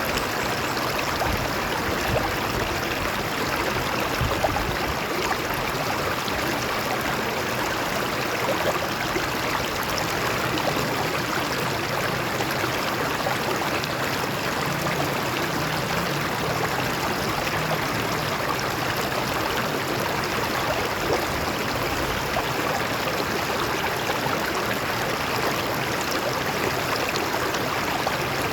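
A stream of water flowing and splashing over rocks: a steady rushing with small gurgles and trickles in it.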